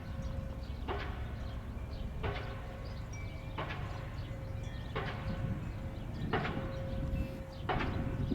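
Diesel pile hammer driving a steel H-pile: a sharp metallic strike about every 1.4 seconds, six in all, over a steady low rumble.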